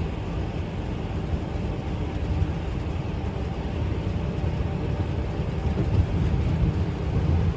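Steady low rumble of a semi-truck's diesel engine and road noise heard inside the cab while cruising.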